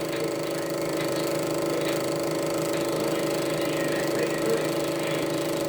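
Elmo Super 8 sound projector running, a steady mechanical whir with a hum of several fixed tones.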